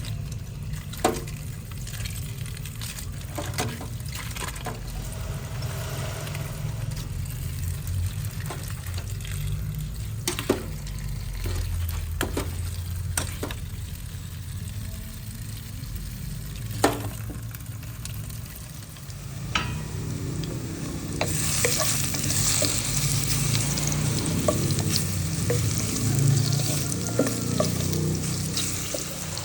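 Food frying and being stirred in a pan: a utensil clicks and knocks against the pot while the food sizzles. About twenty seconds in, the sizzling gets louder and brighter. A steady low hum runs underneath.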